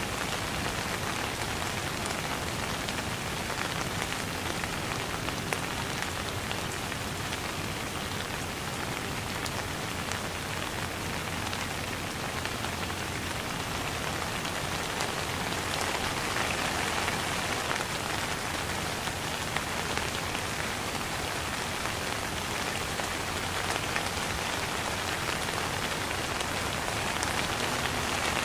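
Steady rain falling: a dense patter of many small drop splashes over a constant hiss.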